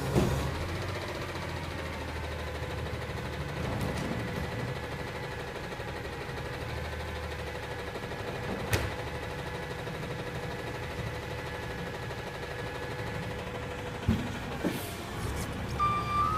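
Recycling garbage truck running steadily, a low engine hum with a held whine above it, broken by a sharp click about halfway through and a couple of knocks near the end.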